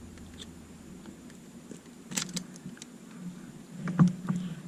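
A few light clicks and taps of small plastic parts being handled as LED connector plugs are pulled out of a drone's circuit board, with a cluster a little after two seconds and the loudest click near the end.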